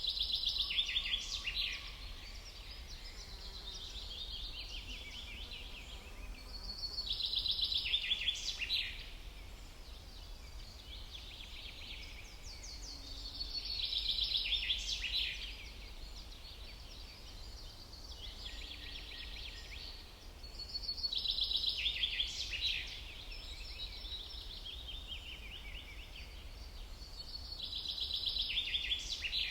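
Songbird singing the same short, fast-trilled phrase five times, about every seven seconds, each phrase dropping in pitch toward its end. A steady low rumble runs underneath.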